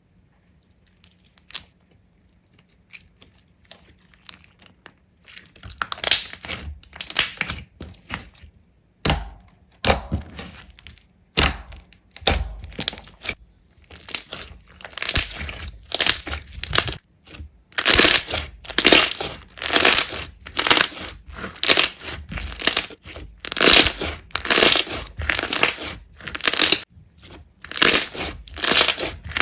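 Slime being pressed and squeezed by hand, each press a short crackling squish, about one a second. The presses are faint for the first few seconds and get louder and steadier from about halfway through.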